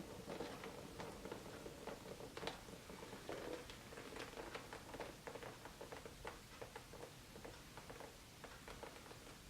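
Faint, irregular light clicks and taps of paint cups and tools being handled, over a faint steady hum.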